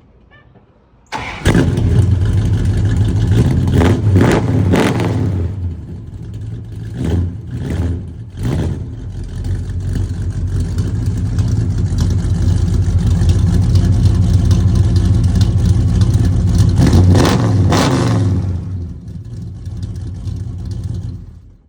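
Car engine started: it catches suddenly about a second in, then runs with the throttle blipped several times, revs rising and falling, before it stops near the end.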